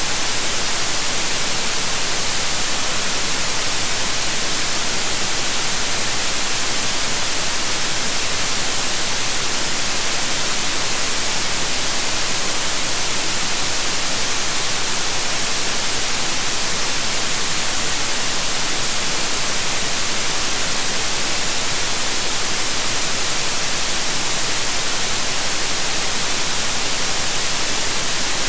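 Steady, unchanging white noise: an even hiss, brightest in the high range, that does not vary.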